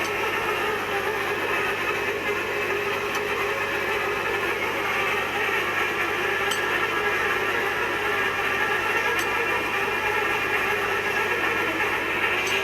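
Steady mechanical noise of machinery, with a faint click about every three seconds.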